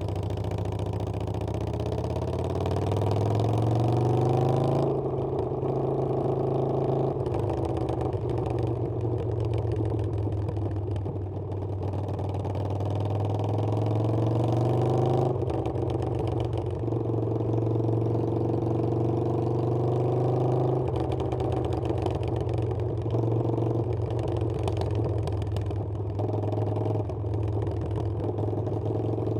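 Harley-Davidson Iron 883's air-cooled 883 cc V-twin accelerating under way: its pitch climbs for about five seconds, breaks at a gear change, climbs again until about halfway, then settles to a steadier cruise with another shift near the end.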